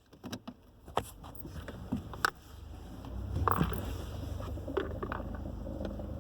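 A vehicle's irregular knocking and clicking, the fault noise being demonstrated, over the low rumble of the vehicle running, which grows louder about halfway in.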